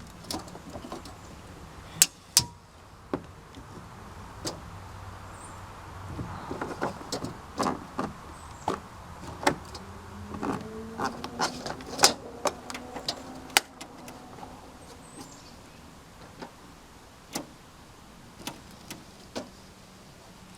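Irregular sharp clicks and knocks over a faint low hum, with a faint whine that rises slightly in pitch near the middle.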